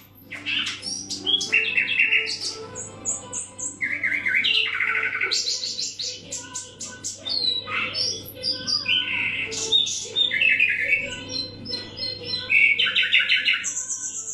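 Nightingale singing: a continuous run of varied phrases, rapid repeated notes and trills separated by short pauses, with a high held whistle near the end.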